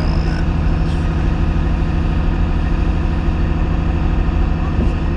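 Komatsu PC210 excavator's diesel engine running steadily under throttle.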